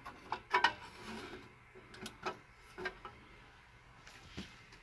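A few light clicks and knocks with some rubbing, the sound of hands handling equipment.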